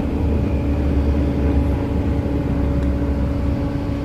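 Engine running steadily, a deep rumble under a steady hum; the deepest part of the rumble drops away near the end.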